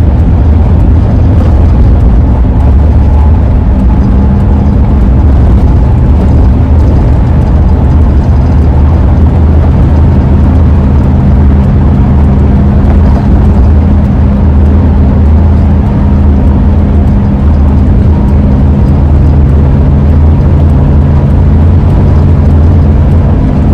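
Road and engine noise inside a 2001 Ford E-350 van's cabin while driving, a loud steady rumble with a low, even drone of several held tones underneath.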